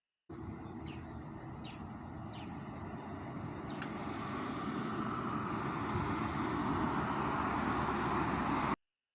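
Outdoor ambience: a steady rushing drone, like distant traffic or an aircraft, that grows gradually louder. A few short high chirps come about one to two and a half seconds in, and a single click near four seconds. It starts and cuts off abruptly.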